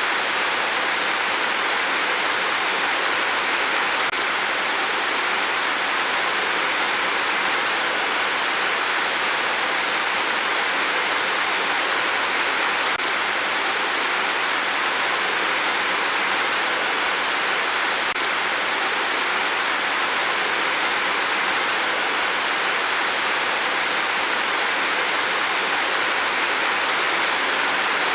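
Steady rain: an even hiss that never lets up, with no gusts or separate drops standing out.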